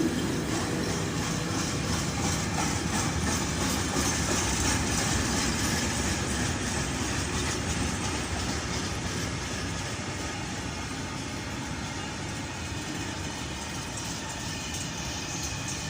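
Train passing on the line, its wheels rolling on the rails in a steady rumble that slowly fades.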